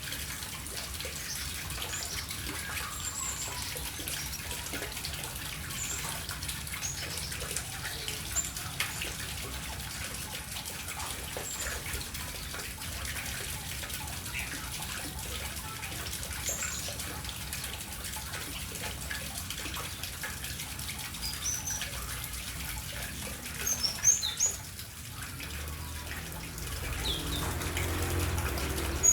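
Small birds bathing, water splashing under fluttering wings, with scattered short high chirps. A few louder splashes come about three-quarters of the way through.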